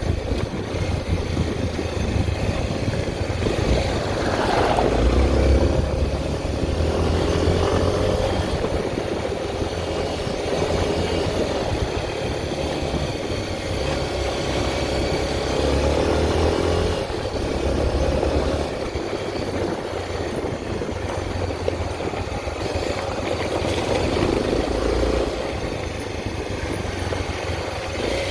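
Honda XR 250 Tornado's single-cylinder four-stroke engine running on the move, its engine speed rising and falling.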